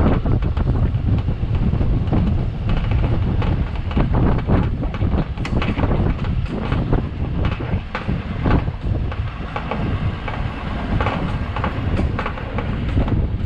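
Plow truck running with a steady low rumble, with frequent knocks and rattles as the plow pushes and scrapes snow along the driveway's edge.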